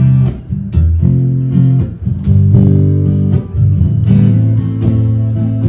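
Acoustic guitar strummed in chords in a slow rhythm, an instrumental passage between sung lines of a song.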